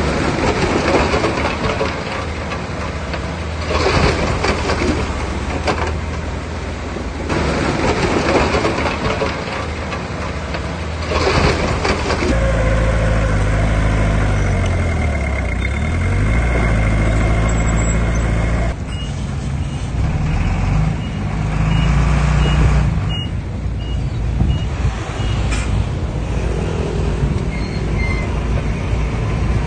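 Heavy diesel earthmoving machinery working, its engines running and revving under load with surges of noise through the first twelve seconds. After that comes a steadier engine drone that dips in pitch and recovers. A faint high reversing beeper sounds for a few seconds from about twenty seconds in.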